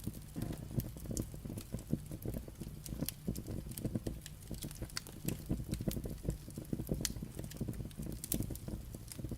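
Wood fire burning, the logs crackling and popping in many irregular sharp snaps over a low steady rumble of the flames.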